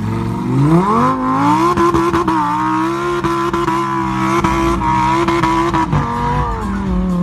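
Lamborghini Huracán Performante's naturally aspirated V10 revving up hard over the first two seconds, held at high revs as the car slides across snow, then dropping back about six seconds in and holding lower.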